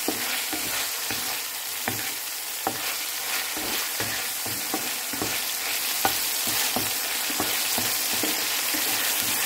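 Chicken pieces sizzling in hot oil in a frying pan, stirred with a wooden spatula that scrapes and knocks against the pan now and then.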